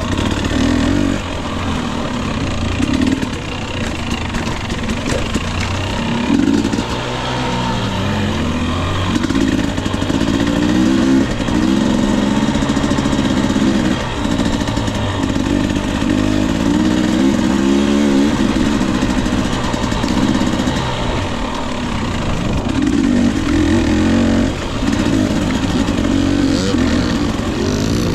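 2021 Husqvarna TE 250i two-stroke dirt bike engine being ridden, its pitch rising and falling again and again as the throttle is opened and closed.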